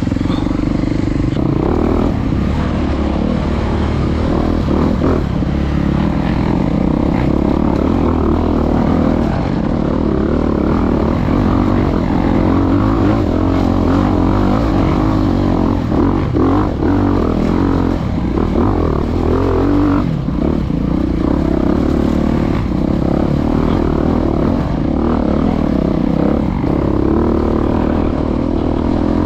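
Dirt bike engine running hard under load, revving up and down continuously as the bike is ridden through a woods race course, heard close up from the rider's own bike.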